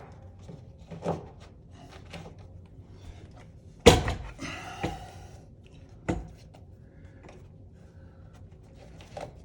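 A few scattered knocks and thumps. The loudest is a sharp thump about four seconds in, followed by a brief rustle.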